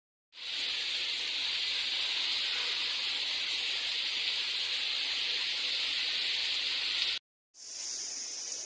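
Steady hiss of monsoon rain with a continuous high insect drone over it. Near the end the sound cuts out for a moment and comes back as a high insect chorus over fainter rain.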